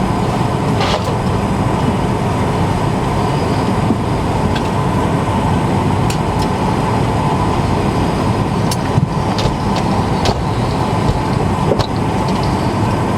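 Steady cabin noise of an Airbus A220-300 waiting at the gate: a constant rush of ventilation air with a faint steady hum, and a few short clicks and knocks scattered through it.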